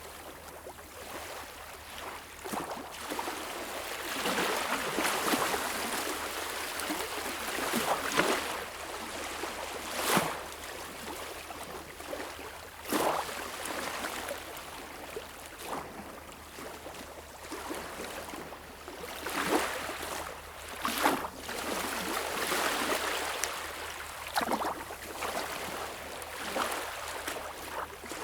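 Small waves lapping and washing on a beach shore, swelling and falling away, with sharper splashes every few seconds.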